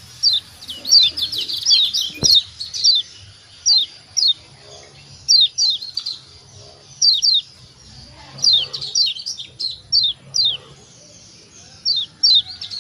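Lombok yellow white-eye (kecial kuning) giving repeated sharp 'ciak' calls: short notes that sweep quickly down in pitch, often in quick runs of two or three, with brief gaps between runs.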